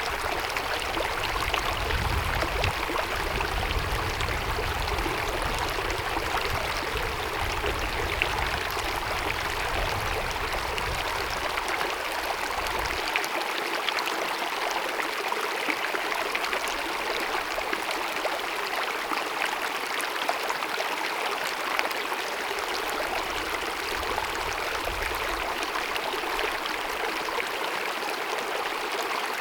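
Glacier-fed mountain stream cascading and babbling over rocks, a steady rush of running water. A low rumble sits under it for about the first dozen seconds, then mostly fades.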